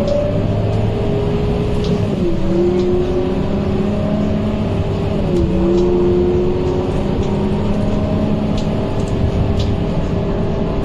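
Scania K230UB bus running, with a loud steady whine from its radiator cooling fan over the engine. The whine dips in pitch and recovers twice, about two and five seconds in.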